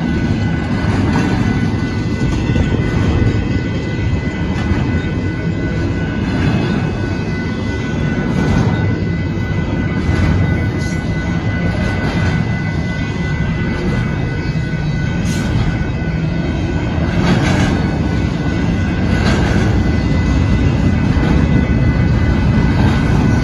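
Union Pacific double-stack intermodal freight train rolling through a grade crossing: a loud, steady rumble of container cars, with wheels clacking over the rail joints every second or two. A steady high-pitched tone sounds over it.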